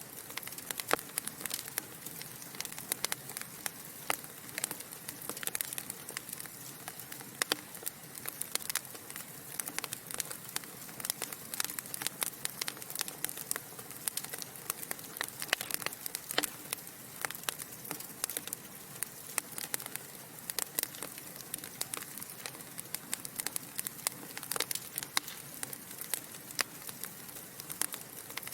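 Wood fire burning in a fireplace: dense, irregular crackles and pops from the burning logs over a steady soft hiss.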